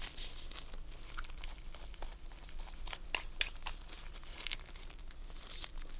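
Close-miked crinkling and rustling with scattered light clicks and ticks, from hands handling skincare props; the clicks cluster a little past the middle.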